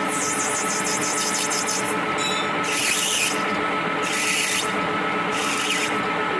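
Steady hum of a running workshop machine, with a rasping stroke of filing or abrasive on metal about every second and a half.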